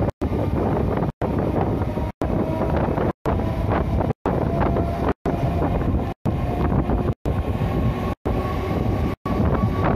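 Electric MEMU local train running out of a station, heard from on board at an open window: a steady low rumble with wind on the microphone and a faint whine above it. The sound cuts out briefly about once a second.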